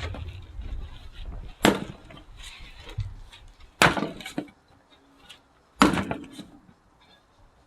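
Axe blows splitting firewood: three hard strikes about two seconds apart, each with a short crack of the wood splitting, with a few lighter knocks between.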